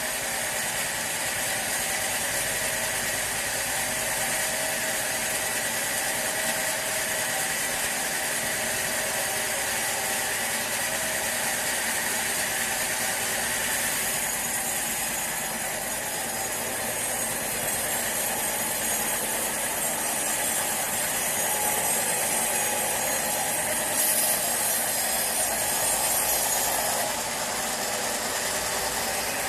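Bandsaw sawmill running steadily, a continuous machine noise from blade and motor. Its character shifts about halfway through and again a few seconds before the end.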